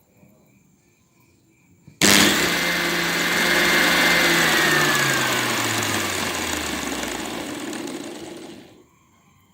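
Hand angle grinder motor, run through a lamp dimmer speed controller. It switches on with a sudden loud start about two seconds in, then its whine falls in pitch as it slows, and it stops near the end.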